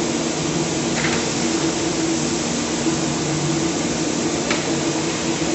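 A machine running with a steady drone and a constant low hum, with a couple of faint clicks.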